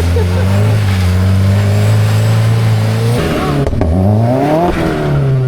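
Car engine revving hard while drifting in snow. It holds a steady high pitch for about three seconds, then drops and climbs again a few times as the throttle is lifted and reapplied.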